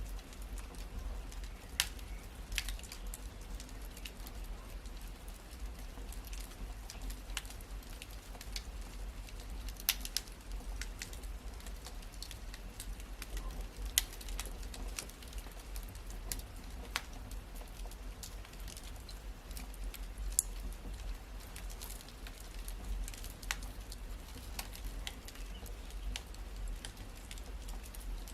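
Wood fire in a fireplace crackling: scattered sharp pops and snaps over a steady low rumble of the burning.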